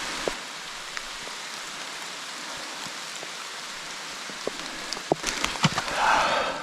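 Steady rain falling on the bush, with scattered drips. About five seconds in, a run of louder knocks and a rustling swell joins it.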